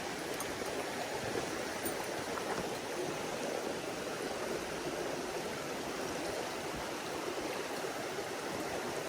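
Mountain stream flowing steadily.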